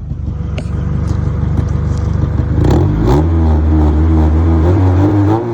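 Honda Integra's four-cylinder engine running with an exhaust leak, revved up about two and a half seconds in, held there, and dropping back near the end. The owner suspects the leak is where the header meets the rest of the exhaust.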